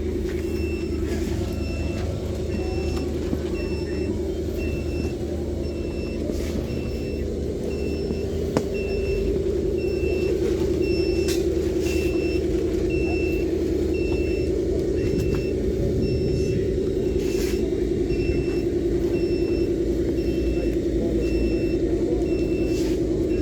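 A vehicle reversing alarm beeping steadily, a little more than once a second, over a continuous engine-like drone that grows slightly louder about nine seconds in.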